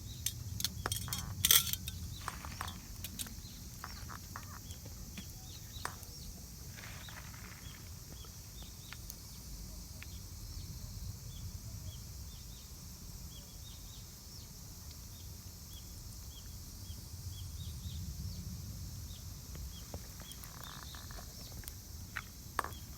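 A small bird chirping faintly and repeatedly, a short high note about twice a second, over a low steady outdoor rumble. A cluster of sharp clicks and knocks comes in the first three seconds.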